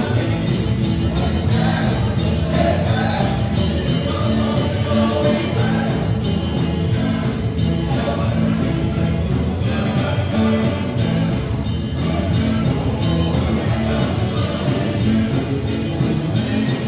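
Live band playing a song with singing over a steady drum beat.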